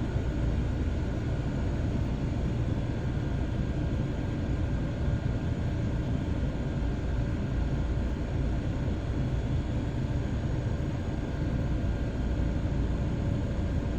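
Steady low rumble of a running vehicle, with a faint constant hum over it and no change throughout.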